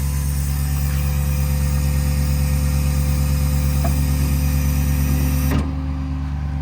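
Ford 6.7 Power Stroke diesel running at raised PTO idle, driving the hydraulic pump while the truck's hydraulic outriggers are worked. A steady hiss rides over the engine and cuts off suddenly about five and a half seconds in.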